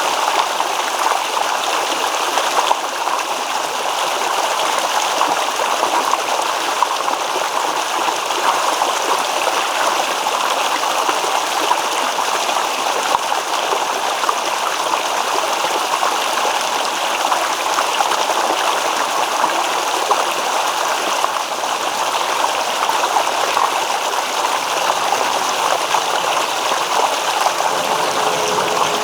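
Small stream babbling and trickling over rocks, a steady, even rush of water with light gurgles.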